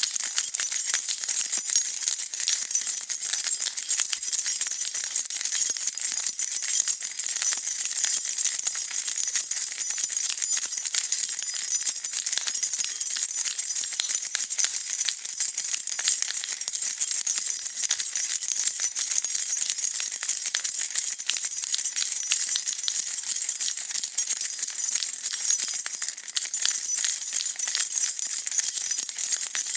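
A bunch of metal keys shaken without a break: a dense, even jingling and rattling of keys clinking against each other.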